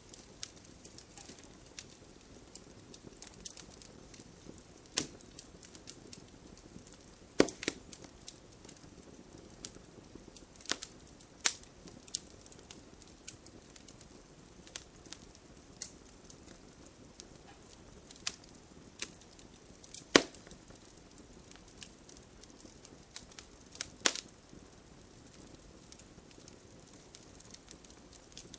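Wood fire crackling: irregular small crackles over a faint steady background, with a few much louder sharp pops scattered through.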